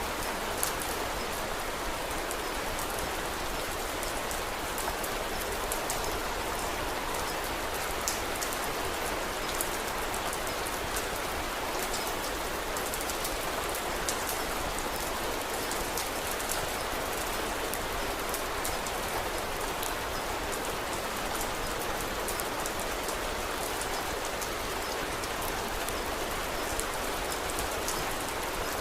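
Steady rainfall as an even hiss, with many small sharp ticks scattered throughout.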